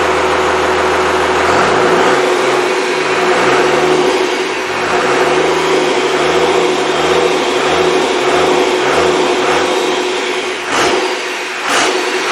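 Rebuilt Cummins 5.9L 12-valve inline-six diesel engine running, its speed rising and falling over and over about every three quarters of a second, with two sharp knocks near the end.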